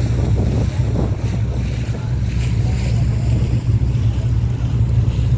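Steady low drone of a passenger boat's engine heard on board, with wind on the microphone and water rushing past the hull.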